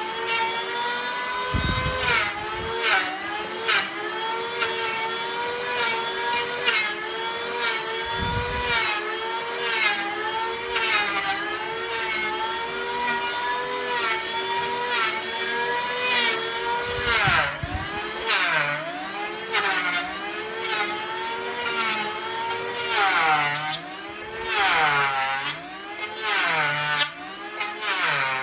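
A power tool's motor running fast with a steady whine. The pitch sags and recovers again and again as it is pressed into the wood, and more often in the second half. Frequent sharp knocks and clicks run through it.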